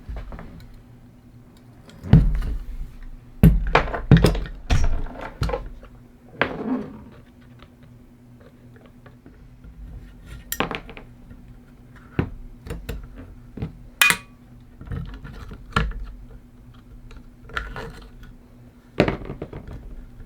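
Metal parts and hand tools being handled. Scattered clinks and knocks come in a cluster of louder knocks between about two and six seconds in, and one knock about fourteen seconds in rings briefly. A faint steady hum runs underneath.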